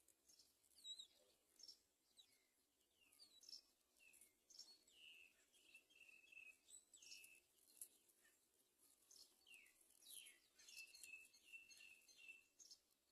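Faint bird calls: high chirps and quick downward-sweeping notes, with two runs of short repeated notes, one around the middle and one near the end.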